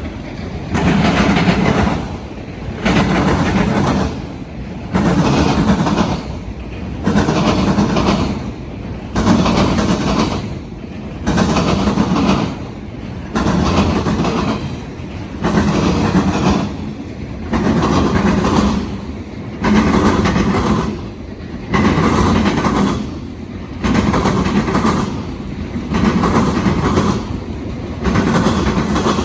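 Freight train of autorack cars rolling over railroad diamonds, its wheels pounding the crossings in a steady rhythm, a loud pass about every two seconds as each car goes over.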